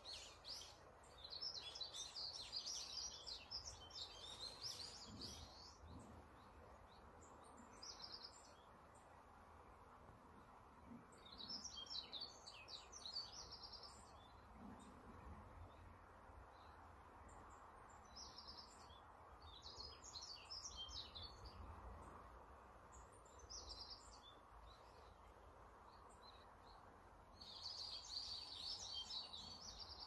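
Songbird singing short bursts of quick, high notes, a phrase every few seconds, over a faint steady hiss.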